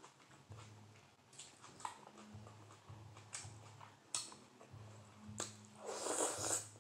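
Soft chewing with small wet mouth clicks, then a crackly, crunchy bite into a romaine lettuce wrap about six seconds in.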